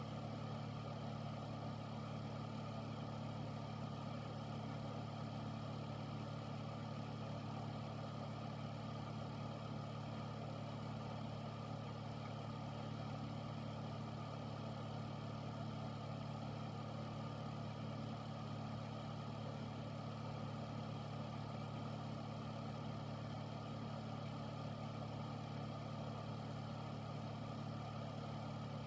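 Air filter running steadily: a constant low motor hum under an even rush of air from its fan.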